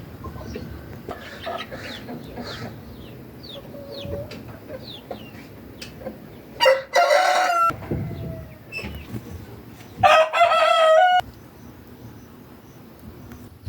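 A rooster crowing twice, each crow about a second long and about three seconds apart. Small birds chirp faintly before the first crow.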